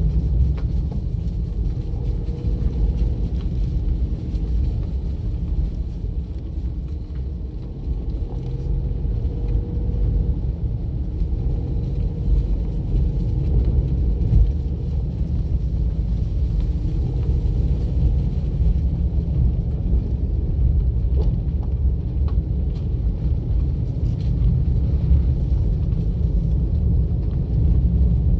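Steady low rumble of a car driving along a road: engine and tyre noise, with no sudden events.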